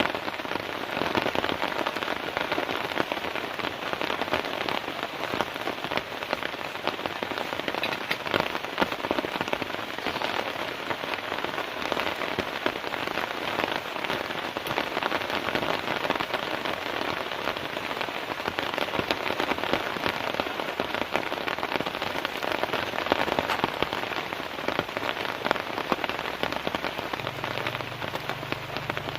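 Heavy, steady rain falling on a tent, a dense stream of separate drop hits that never lets up.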